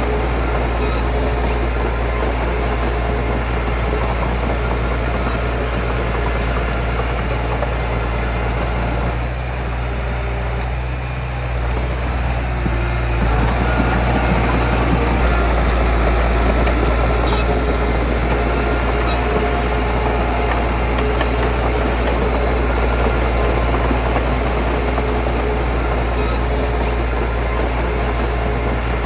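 Diesel engine of a Komatsu D31PX crawler bulldozer running steadily, easing off briefly about ten seconds in, then running a little louder from about halfway, with a few faint clicks.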